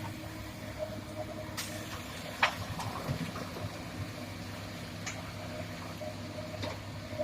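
Komatsu PC200 hydraulic excavator's diesel engine running steadily, with a few sharp knocks of rock or bucket, the loudest about two and a half seconds in.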